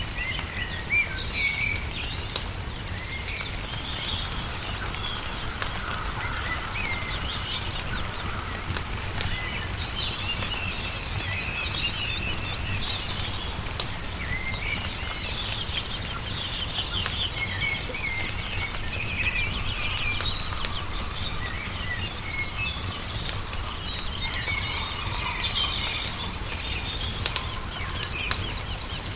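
Songbirds chirping and trilling over the scattered pops and crackles of a wood fire, with a steady low background noise underneath.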